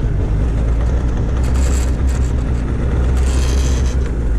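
Johnson outboard motor running with the boat underway: a steady, loud low rumble over a rushing haze, with two short bursts of hiss partway through.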